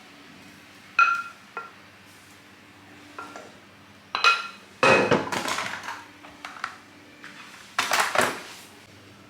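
Metal kitchen utensils and cookware clinking and clattering: one ringing clink about a second in, a run of clatters between four and six and a half seconds in, and another clatter about eight seconds in.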